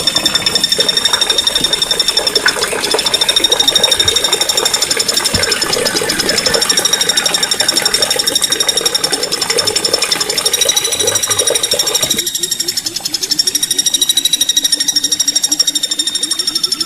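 Small songbirds singing a fast, continuous trilling song, high and rolling. A lower buzzing rattle runs beneath it and stops about twelve seconds in, leaving the high trill alone.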